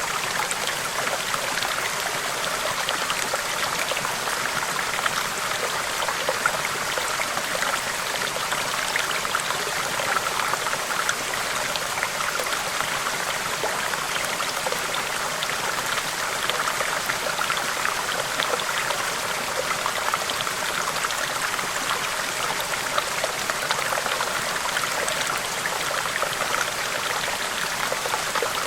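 River water flowing in a steady rush, with many small splashes and droplets throughout.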